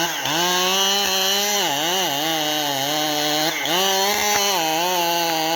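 Two-stroke chainsaw running at high speed, its engine pitch dipping briefly and coming back up about three times.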